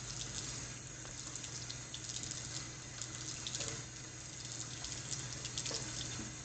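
Bathtub tap running steadily, with irregular splashing as the water hits.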